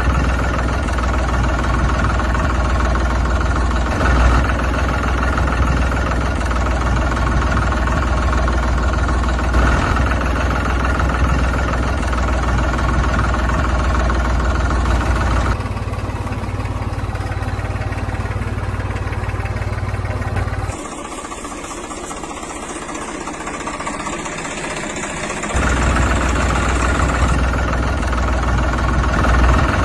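Tractor engine running steadily with a deep low rumble. Its sound changes abruptly about halfway through, turns quieter and thinner about two-thirds in, and returns to the first sound near the end.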